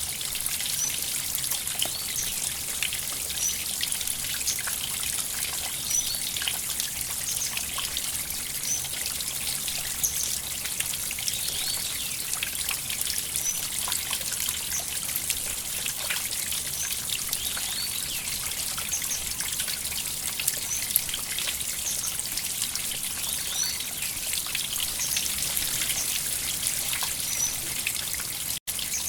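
River water trickling and splashing: a steady bright hiss with many small drips and plinks. It cuts out for an instant near the end.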